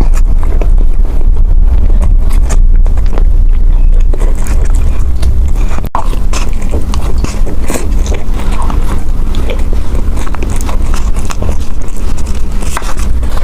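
Close-miked eating sounds: a person chewing and biting food, with many small wet clicks over a heavy low rumble from the microphone.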